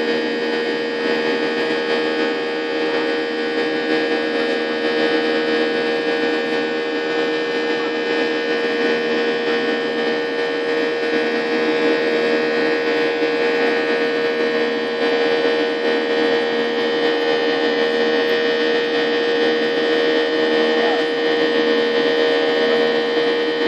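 Steady jet airliner cabin noise during the climb: engines and airflow making a continuous drone, with several steady tones over it, the strongest a low hum.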